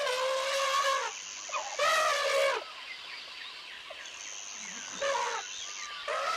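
Four short pitched animal calls, each under a second long, with a steady high faint tone in the gaps between them.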